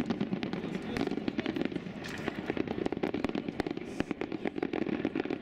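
Fireworks display going off: a dense, continuous string of sharp bangs and crackling pops.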